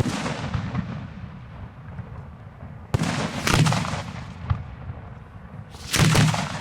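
Fireworks shells going off at close range: a loud boom with a long rolling echo about three seconds in, a single sharp crack a little later, and another loud boom near the end.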